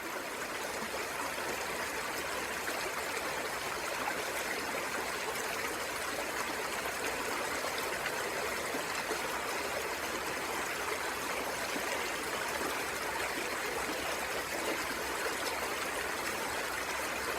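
Steady, even rush of a flowing river, with no break or change.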